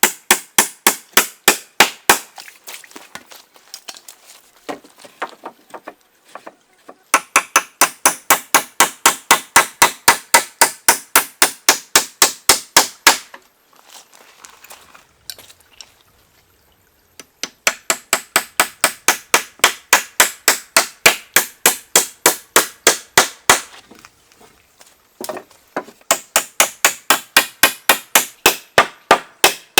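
Rapid, even blows of a hand tool on wood, about three a second, in runs of several seconds broken by short pauses.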